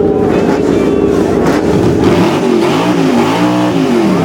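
Chevy car engine revved hard: a steady high drone for about two seconds, then blipped up and down over and over in quick rises and falls.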